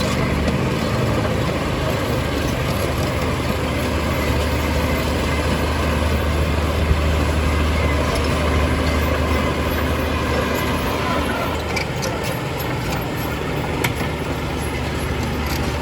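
Heavy diesel engine of earth-moving machinery running steadily with a deep low rumble, and a few light clicks near the end.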